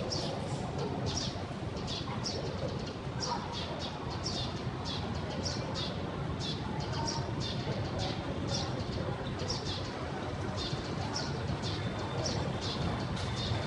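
Birds chirping over and over, short high calls a couple of times a second, over a steady low rumble of background noise.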